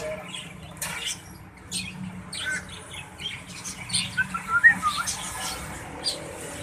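Many caged birds chirping and squawking in short, overlapping calls, with a loud cluster of quick sharp calls about two-thirds of the way through.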